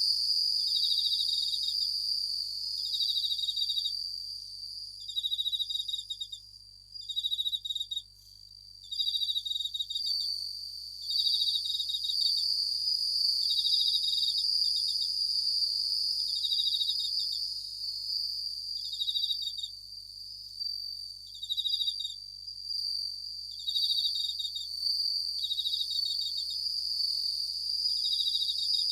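Japanese bell crickets (suzumushi) singing in chorus: a steady high ringing with short pulsed trills, each under a second, repeating about once a second. The song thins briefly about seven seconds in, then picks up again.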